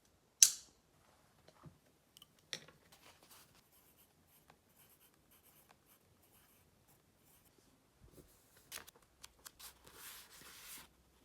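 Small objects being handled close up: a sharp click about half a second in, scattered light taps and scratches, then a short hissing rush lasting about a second near the end.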